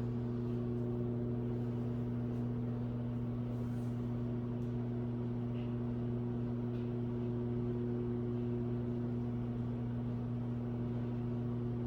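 Microwave oven running with a steady low hum while heating popcorn, with no kernels popping yet.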